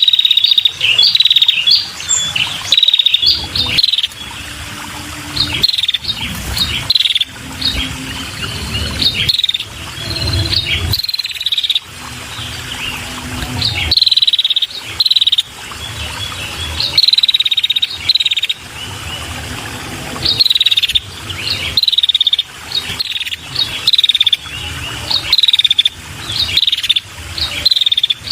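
Female red-headed prenjak (ashy tailorbird) calling: short, high, chattering calls repeated in quick clusters, each often sweeping quickly downward, with brief pauses between bursts. It is the female's call used to lure male prenjak.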